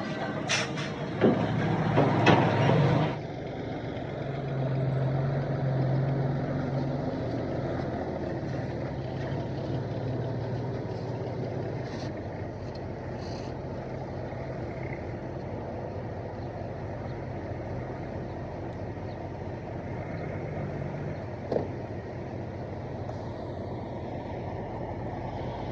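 Diesel engine of heavy earthmoving machinery running steadily, with loud clattering and several sharp knocks in the first three seconds and a single knock late on.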